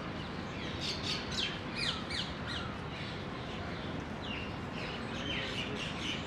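Small birds chirping in quick, falling notes, in two busy spells, about a second in and again near the end, over a steady low background hum.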